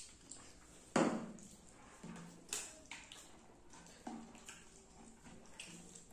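Close-miked mouth sounds of eating rice and fish curry: irregular wet chewing and lip smacks, the loudest about a second in.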